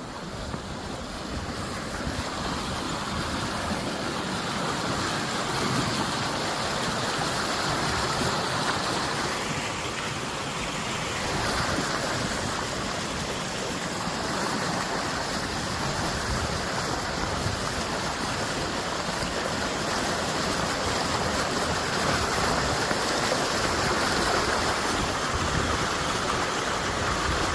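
Woodland stream rushing steadily, growing louder over the first few seconds.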